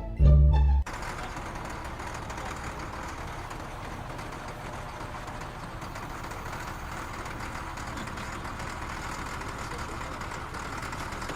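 A short burst of music cuts off within the first second, followed by a steady machine hum with a broad hiss that holds even to the end.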